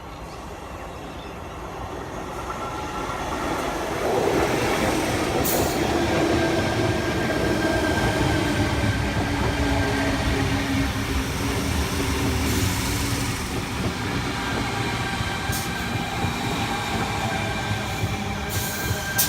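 Sydney Tangara electric multiple unit pulling into the platform, its running noise building over the first few seconds and then holding as the train slows, with a motor whine slowly falling in pitch. Short sharp hisses of air come several times.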